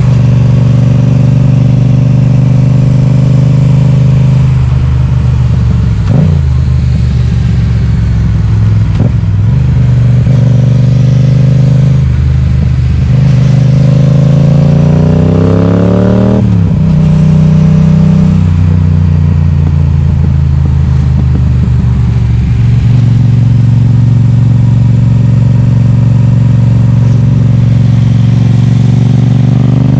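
Yamaha XSR700's 689 cc parallel-twin engine running loud through an Akrapovic exhaust with the baffle removed, under way on the road. The engine note holds steady with a couple of dips off the throttle, and about halfway through one rev climbs for about three seconds, then drops sharply.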